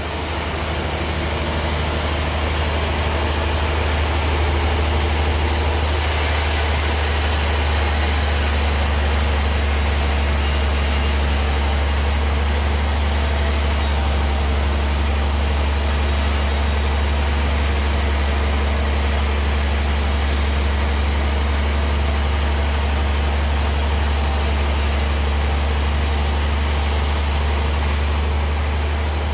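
Bandsaw sawmill running with a steady low drive hum. About six seconds in, a high hissing cutting noise starts as the band blade saws through the log, and it dies away near the end.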